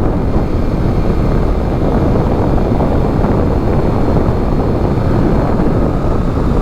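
Steady wind rush buffeting the microphone of a 2021 Honda Rebel 500 at road speed, with the motorcycle's running noise low underneath.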